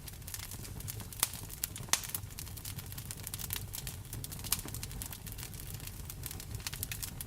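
Wood fire crackling and popping in a fireplace over a steady rumble of rain. Two sharper pops come a little after one second and just before two seconds in.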